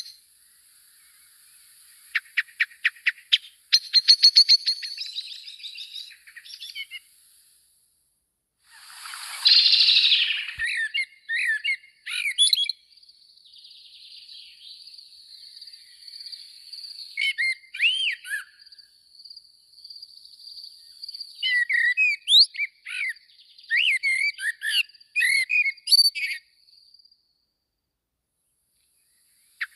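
Small birds chirping and singing: quick runs of short high notes, a harsh rasping burst about ten seconds in, then varied warbling and whistled calls that stop a few seconds before the end.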